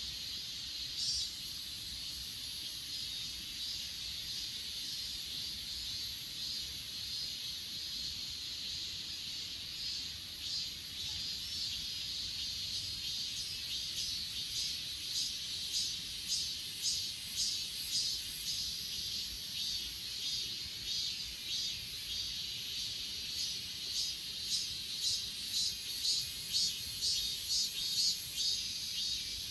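Chorus of grass insects such as crickets: a steady high trilling, joined about ten seconds in by a pulsing chirp that grows louder, about two chirps a second near the end.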